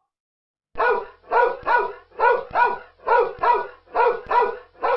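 Dog barking repeatedly, about two barks a second and often in quick pairs, starting under a second in.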